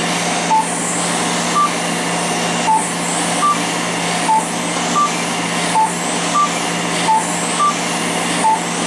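Fraxel laser handpiece tweeting in short beeps that alternate between two pitches, a little more than one a second and unevenly spaced, over the steady rush of the cold-air cooling hose. The beeps are the laser's audible speedometer: their rate follows how fast the handpiece is moved, and so how quickly the laser fires.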